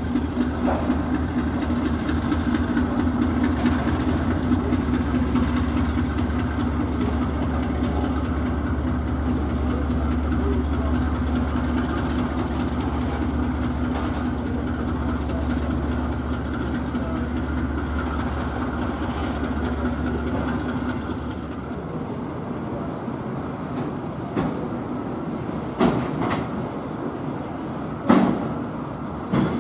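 Freight train wagons rolling slowly over a level crossing, a steady low rumble that eases about two-thirds of the way through, followed by a few sharp metallic knocks near the end.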